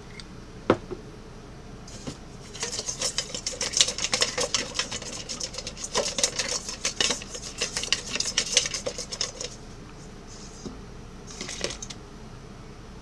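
Metal cooking utensils clattering and scraping in quick succession for about seven seconds, after a single sharp click near the start; a short scrape follows near the end.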